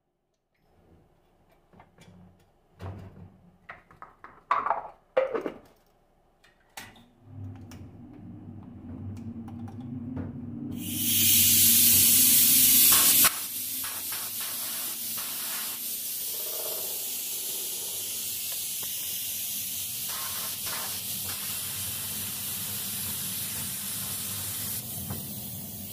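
A few handling clicks and knocks, then a low steady hum from about seven seconds in, and from about eleven seconds a loud spray hiss as varnish is sprayed onto cleaned alternator parts, strongest for the first two seconds and then steady until near the end.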